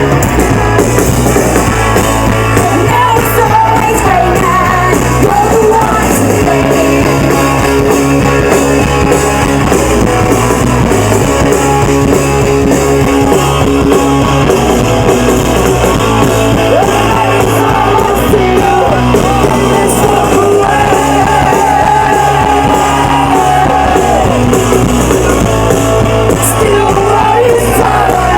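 Live rock band playing loud, with a guitar, bass and drums and a singing voice, recorded by a phone in the crowd.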